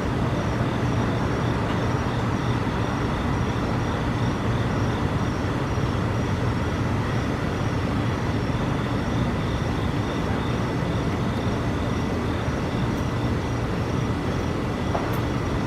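A steady, loud, low rumbling drone with a hiss over it, unbroken and without clear pitch: the unexplained noise that residents reported hearing.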